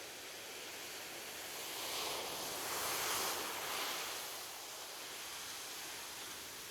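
Ocean waves: the surf hisses steadily, and a wave breaks and washes up, swelling to a peak about two to four seconds in before it falls back.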